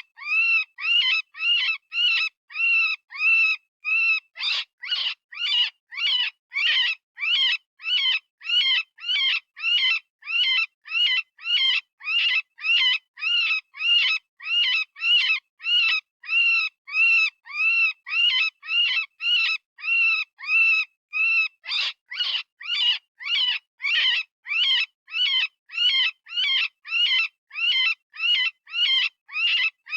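Synthesized rabbit distress call: short, high screaming cries that rise and fall in pitch, repeated about twice a second with brief gaps between. Around four seconds in, and again a little past the middle, the cries turn rougher and harsher for a few seconds.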